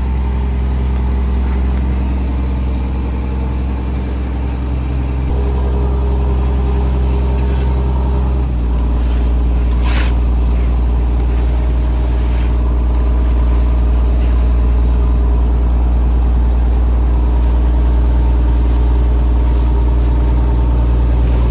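A fishing trawler's diesel engine running steadily with a high whine over it. About eight seconds in, the whine glides lower and the engine settles into a new steady note.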